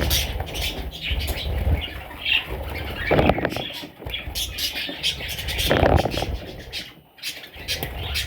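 Pet parrots chattering, with rapid short clicks and chirps and louder squawking calls about three seconds and six seconds in.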